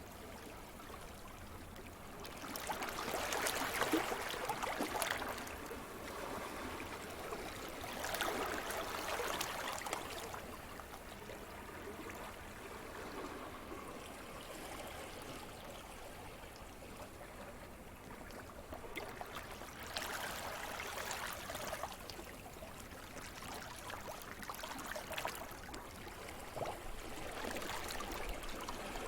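Waves breaking and washing onto a shore: a steady rush of water with four swells of surf, each building and fading over a few seconds.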